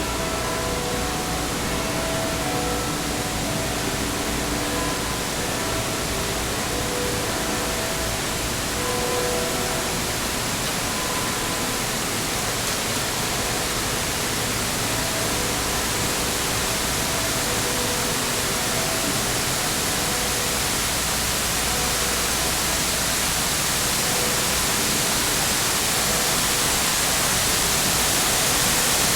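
Man-made waterfall of an urban pocket park, a wall of water pouring down into a basin, making a steady rushing noise that grows a little louder near the end. Faint short tones come and go in the first ten seconds or so.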